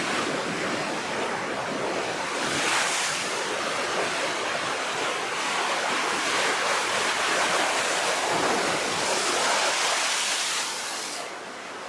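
Rough sea surf: waves breaking and washing in, swelling louder about three seconds in and again later, then easing off near the end.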